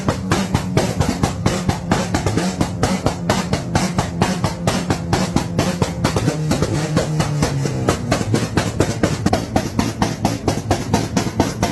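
Turbocharged Mazda RX-7 rotary engine held on a 2-step launch limiter: a rapid, uneven string of bangs and pops from the exhaust over a held engine note that drops in pitch twice.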